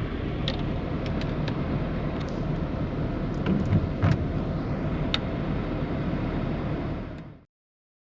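Rain falling on a campervan roof, heard from inside: a steady rush with scattered sharp ticks of drops, cut off about seven seconds in.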